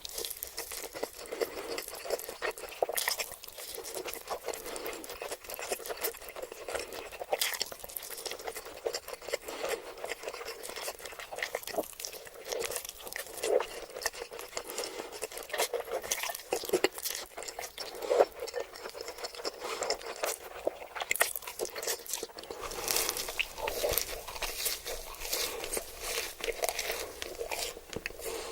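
Close-miked eating sounds: crunchy food being bitten and chewed, a dense, continuous run of crackling crunches.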